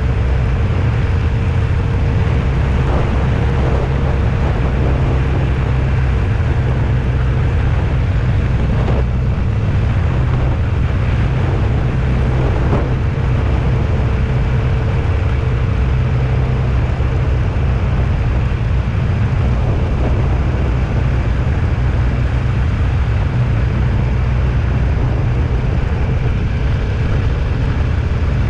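Vehicle driving along steadily: continuous low road and engine rumble with a faint steady hum.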